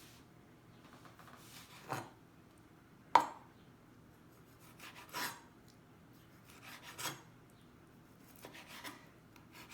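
Knife cutting chicken hearts into small pieces on a cutting board: a few separate cuts and taps, about one every second or two, the sharpest about three seconds in.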